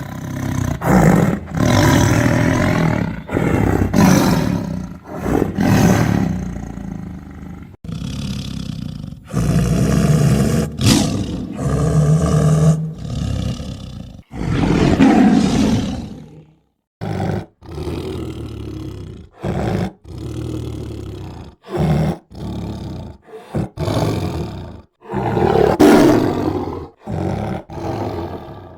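Tiger roaring again and again, a string of loud, rough roars and growls; in the second half the roars come in short bursts with abrupt silent breaks between them.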